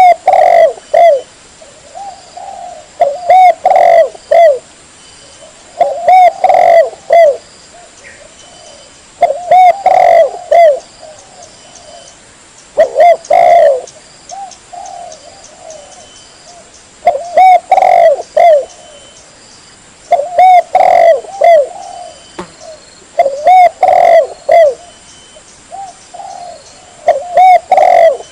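Spotted dove (tekukur) cooing: a loud phrase of several coos, repeated about every three and a half seconds, roughly nine times. It is a lure call for drawing in wild spotted doves.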